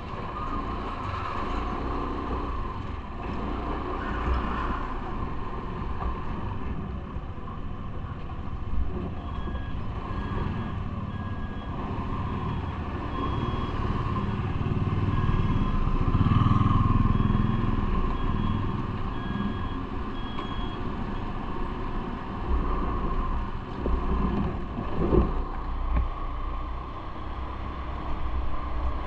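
Steady vehicle running noise, swelling to a louder low rumble near the middle. An electronic beeping pattern at two pitches sounds from about a third of the way in until about two thirds through.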